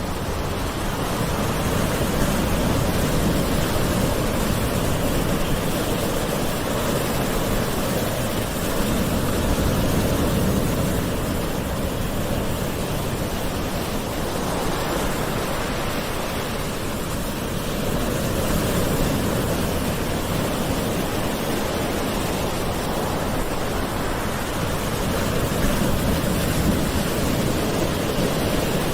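Calm ocean waves washing on a shore: a steady rushing hiss that swells and eases every several seconds.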